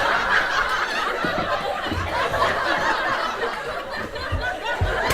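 A theatre audience laughing steadily, with a few low thuds.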